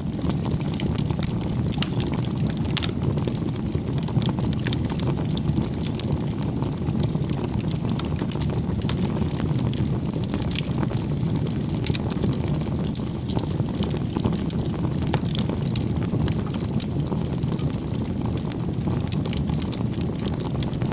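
Campfire burning: a steady low rush from the flames with many small, irregular crackles and pops throughout.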